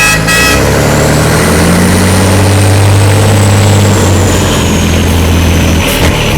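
Scania 112 truck's diesel engine running with a straight-through exhaust and no muffler, a loud steady low rumble that rises slightly in revs about a second in. It dips briefly near the end.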